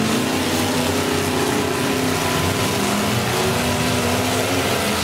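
Several demolition derby cars' engines running and revving together, their pitch rising and falling.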